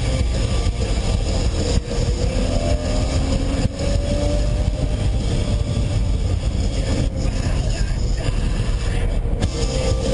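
Lamborghini Murciélago's V12 engine and tyre-and-road noise heard from inside the cabin at highway speed, a steady loud drone with a deep rumble and a slight rise in pitch a few seconds in.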